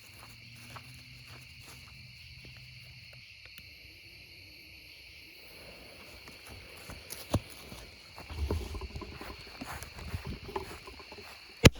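A steady high-pitched background chirring with scattered small clicks and handling noise, then near the end a sharp, loud bang as the first shot of a 200-gram firework cake fires.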